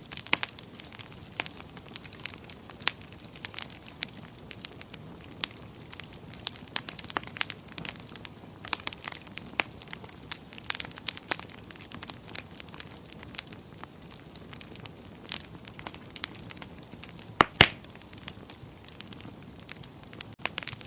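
Wood fire crackling in a fireplace: irregular sharp pops and snaps over a faint hiss, with a pair of louder pops a few seconds before the end.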